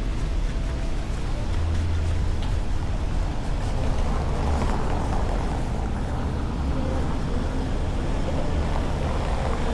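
City street traffic: vehicles running past over a steady low rumble, swelling about halfway through as one passes close.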